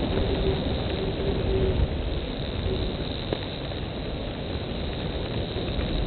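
A bird calling a short run of low, steady hoots, several in the first two seconds, over a continuous rushing background noise with a low rumble.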